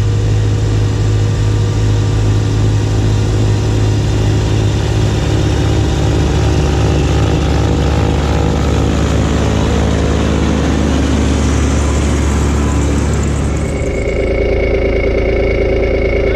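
Kubota B2601 compact tractor's three-cylinder diesel engine running steadily while working a snowblower. About fourteen seconds in the sound changes abruptly, and a steady high whine comes in.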